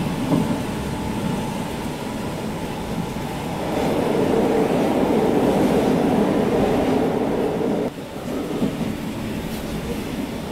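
Diesel railcar running on the track, heard from inside near the driver's cab: wheel and rail noise with some clickety-clack. It grows louder about four seconds in on the steel truss bridge and drops suddenly near eight seconds as the train comes off the bridge.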